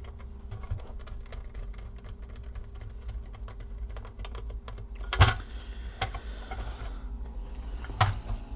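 Rapid light clicking of a small screwdriver driving screws back into a laptop. A few sharper knocks come about five, six and eight seconds in.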